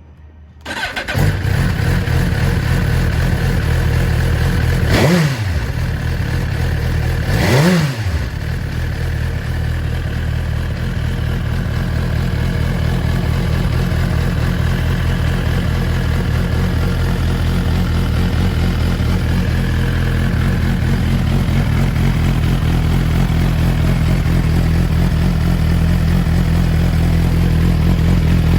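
2022 Suzuki GSX-R1000R's inline-four engine, breathing through a Yoshimura aftermarket muffler, starts about a second in and settles to an idle. It is blipped twice, a quick rise and fall in revs a few seconds apart, then idles steadily.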